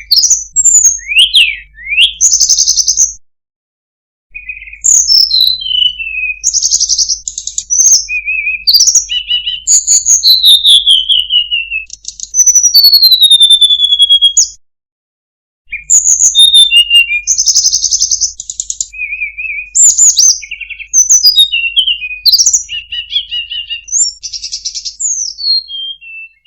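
Tledekan gunung singing a rapid, varied song of high whistles, buzzy trills and steeply falling slurred notes. The song is broken by two brief silences, about three seconds in and again about fifteen seconds in.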